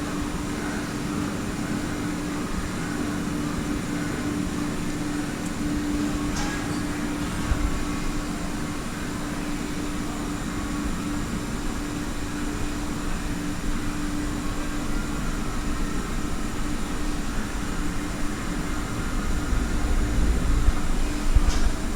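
Mazak QT200 CNC turning lathe running, with a steady machine hum throughout, a couple of brief clicks, and the low rumble growing louder near the end.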